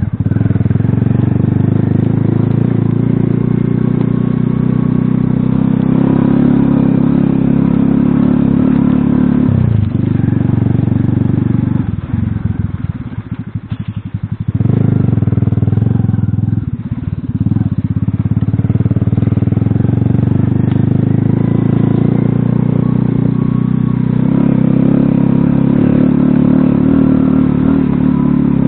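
Alpha moped's small single-cylinder four-stroke engine running under throttle while riding. The engine note drops off twice about halfway through as the throttle is closed, then picks up again.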